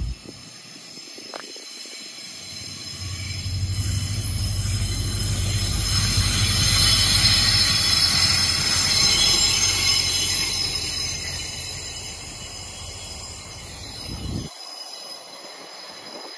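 Diesel cane-train locomotive passing close with a rake of empty steel cane bins: the engine runs with a low hum while the wheels squeal high on the rails. It is loudest as the locomotive goes by about halfway through, then fades as the bins roll past.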